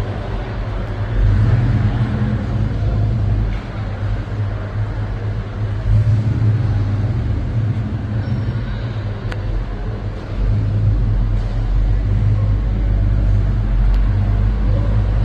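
A truck engine running steadily, its level swelling now and then, with a single sharp click about nine seconds in.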